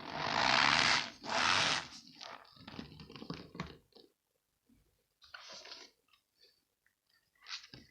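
Balls of packed cornstarch being squeezed and crushed with a squeaky crunch. There are two long, loud crunches in the first two seconds, then a run of smaller crunches, and after a pause a few softer ones.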